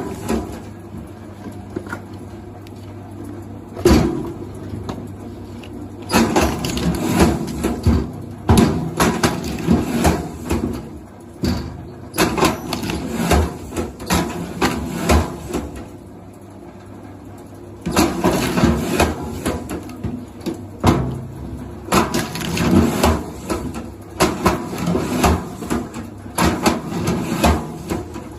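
Bursts of repeated knocks and wooden cracking over a steady low hum, with brief pauses between the bursts.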